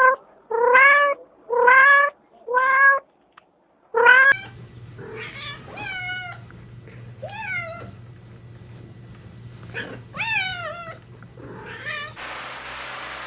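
A cat meowing repeatedly: five loud meows in quick succession during the first four seconds. After a cut, softer, higher meows with wavering pitch follow over a low steady hum.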